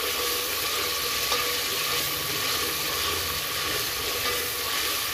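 Ground onion paste and whole spices sizzling steadily in hot oil in a large aluminium pot over a high flame, stirred with a wooden spoon.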